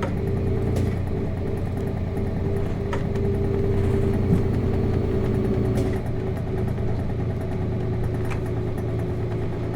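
Cabin sound of a 1998 Nissan Diesel KC-RM211GSN bus with its FE6 inline-six diesel running at a steady speed, a constant hum with a few faint clicks and rattles.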